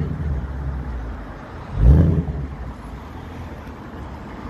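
Ford Mustang Bullitt's 5.0-litre V8 rumbling at low revs through its exhaust, with one short rev about two seconds in.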